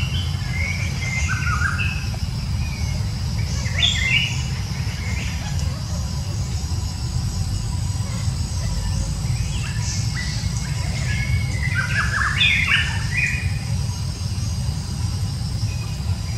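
Wild birds chirping in short scattered runs of calls, one about four seconds in and a busier run around ten to thirteen seconds in, over a steady low rumble and a thin, steady high hiss.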